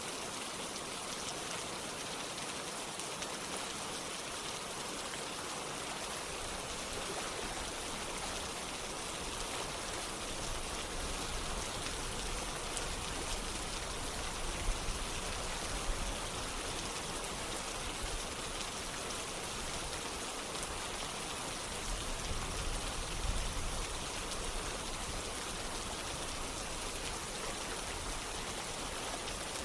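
Steady rain falling together with running water like a stream, an even, continuous hiss with no pauses. A few brief low rumbles rise and fade about halfway through and again past two-thirds of the way.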